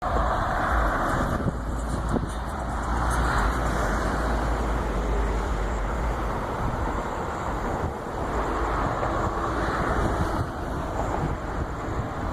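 Road traffic: cars passing one after another, each swelling up and fading in turn, over a steady low rumble.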